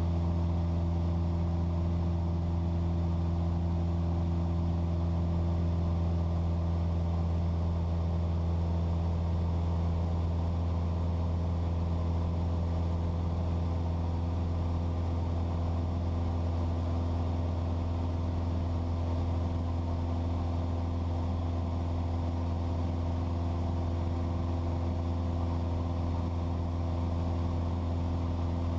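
Cessna 172's piston engine and propeller running steadily in level flight near 10,000 feet, a constant low drone, the aircraft levelled off after a slow climb to rest the engine.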